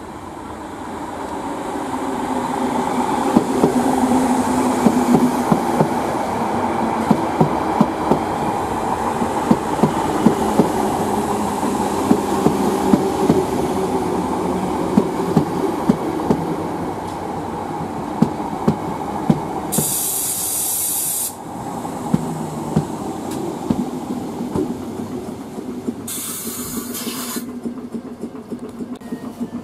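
A train running along the line, building up over the first few seconds, its wheels clicking over rail joints. Past two-thirds of the way through comes a sharp hiss lasting about a second and a half, and a second, shorter hiss comes near the end.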